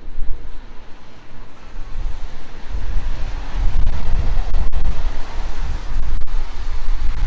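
Aircraft passing overhead: a broad rushing roar that builds about three seconds in and holds, with wind buffeting the microphone in a heavy low rumble.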